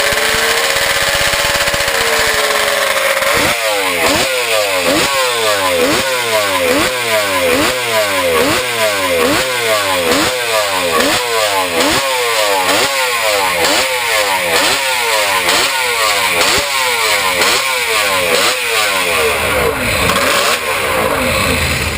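Kawasaki 500 H1R racing motorcycle's two-stroke three-cylinder engine warming up: a held fast idle, then about three or four seconds in a long run of quick, regular throttle blips, each revving up sharply and dropping back, roughly one a second, until near the end.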